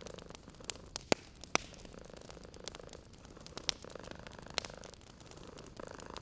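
A cat purring steadily, swelling and fading with each breath, over a wood fire crackling, with sharp pops from the burning wood about a second in, around one and a half seconds and near the middle.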